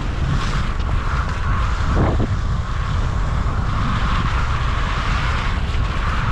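Wind buffeting the microphone: a steady, rough rumble.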